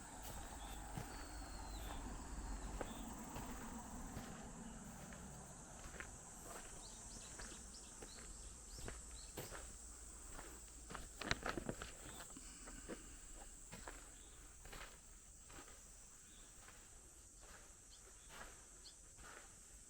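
Footsteps and scattered light knocks and rustles, with a loud cluster of knocks about eleven seconds in, over a steady high chirring of insects.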